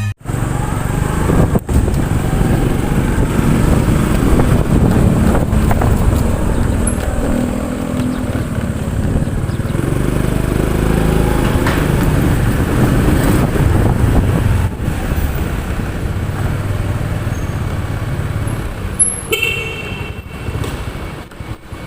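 Motorcycle riding through road traffic: steady engine and road noise, with a short high beep near the end.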